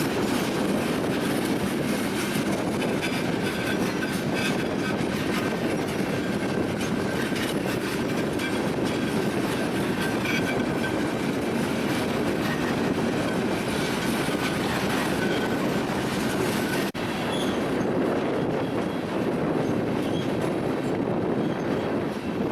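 Union Pacific freight train cars rolling steadily past, wheels clattering over rail joints with a faint, thin wheel squeal.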